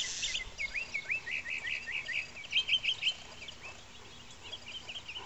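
Small songbirds chirping: a quick run of short rising chirps for about three seconds, fading to fainter chirps near the end, with a short rustle at the very start.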